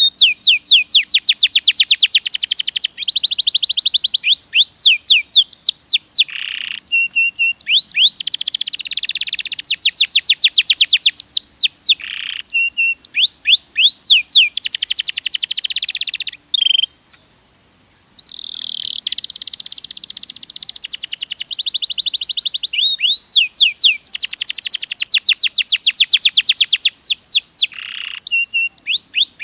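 Domestic canary singing a long, high-pitched song of fast repeated notes and trills in quick-changing phrases, with a silence of about a second a little past halfway.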